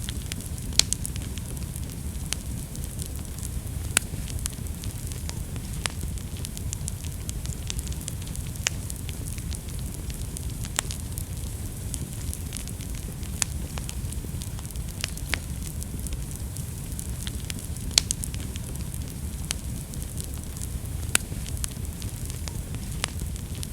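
Wood fire burning in a fireplace, with a steady low rumble and frequent sharp crackles and pops, a few of them much louder than the rest.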